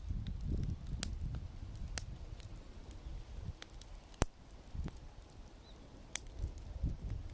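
Wood bonfire crackling, with a handful of sharp pops over a low, uneven rumble.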